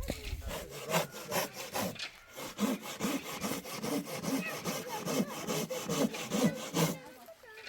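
Rhythmic back-and-forth rasping strokes, about two to three a second, pausing briefly about two seconds in.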